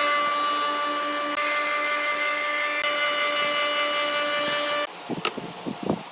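An electric power tool running on wood, with a steady whine, cuts off suddenly near the end, followed by a few light knocks of wood being handled.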